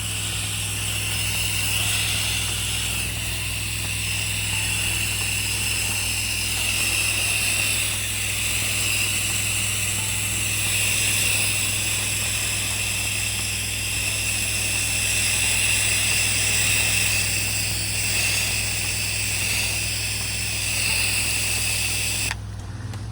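Pressure washer running steadily: the engine's low hum under the hiss of the spray as it puts on a sodium hypochlorite soap mix. The spray cuts off suddenly near the end while the engine keeps running.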